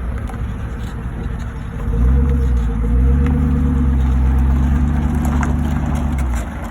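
Tow vehicle's engine pulling while backing a boat trailer down a ramp. The revs rise about two seconds in and again a second later, hold steady, then drop away near the end.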